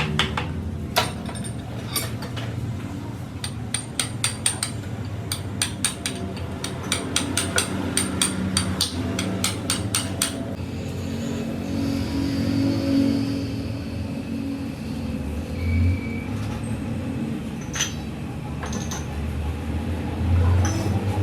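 Repeated sharp metallic knocks and clicks, several a second, for about ten seconds. Then a steadier low hum with only a few scattered knocks.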